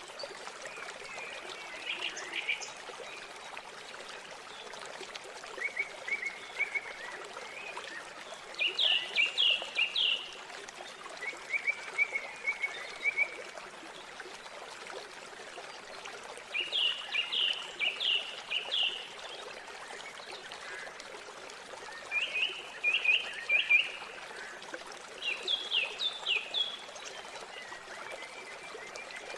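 River water running steadily, with songbirds calling over it: several runs of quick, repeated chirps, each lasting a second or two, plus fainter calls between them.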